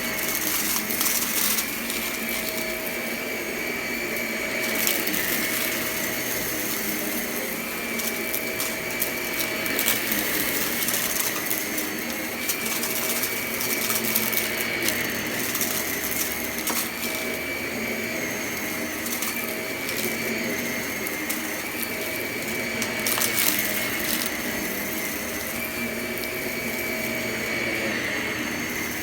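Vacuum cleaner running steadily, its high motor whine dipping and recovering every few seconds, with scattered crackling and clicking as crunchy debris is sucked up.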